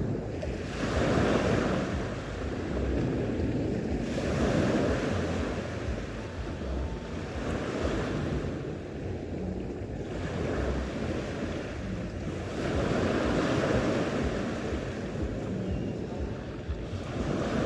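Sea waves breaking and washing on the shore, surging and easing every few seconds, with wind rumbling on the microphone.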